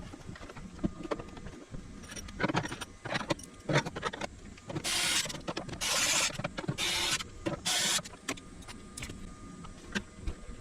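Clicks and handling knocks, then four short runs of a small electric screwdriver, each about half a second long, coming in quick succession.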